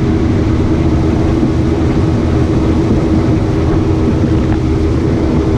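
Boat engine running steadily at cruising speed, a constant drone with a low rumble and wind and water noise.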